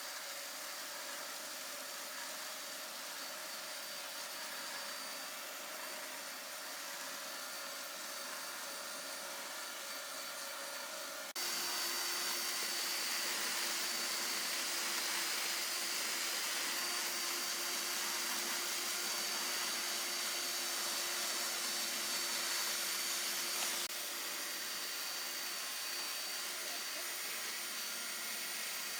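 A small motor running steadily with an airy whir and a thin high whistle. The sound changes abruptly twice, getting louder about a third of the way through and dropping back somewhat near the end.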